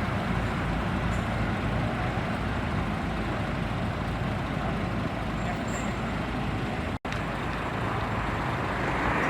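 Steady road traffic noise from passing vehicles, with a brief dropout about seven seconds in.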